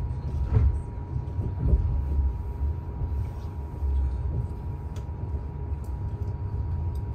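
Low, steady rumble of a moving passenger train heard from inside the carriage, with a faint steady whine and a few light clicks near the end.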